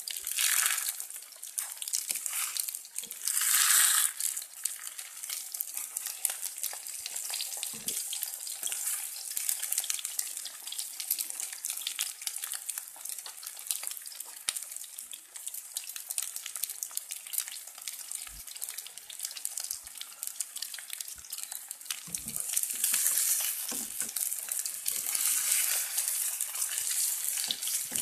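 Beaten-egg omelette sizzling and crackling in hot oil in a frying pan, a steady hiss that swells louder near the start and again near the end.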